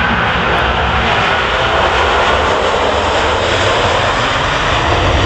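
Jet airliner engines running, a loud, steady rush of noise, with the low rumble growing stronger near the end.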